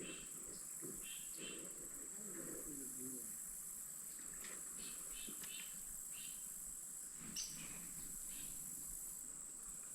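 Steady high-pitched drone of insects, with short bird chirps repeating every second or so. One sharp click comes about seven seconds in.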